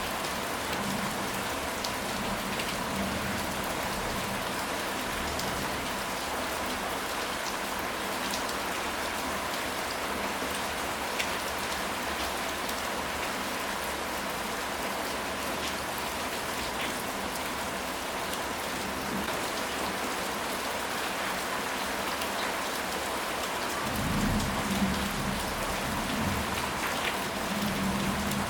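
Steady rain falling on a surface, with scattered individual drop taps. A low rumble of distant thunder swells near the end.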